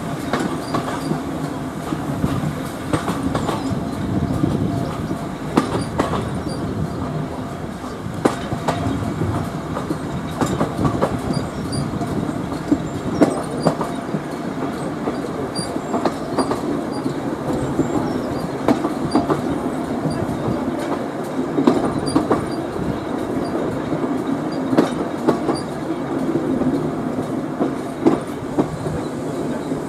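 Railway carriage running on jointed track, heard from an open window: a steady rumble with the wheels clicking over rail joints at irregular intervals.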